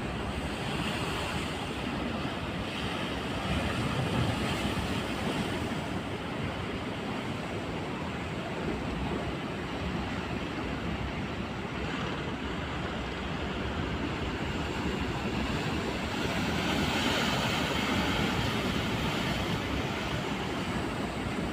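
Steady rush of rough sea and wind, with wind buffeting the microphone; it swells louder about four seconds in and again near the end.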